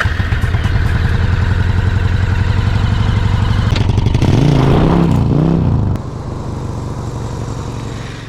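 Suzuki Intruder VS800's V-twin engine idling just after starting. It is blipped twice, its pitch rising and falling about four to five seconds in, then settles to a quieter idle about six seconds in.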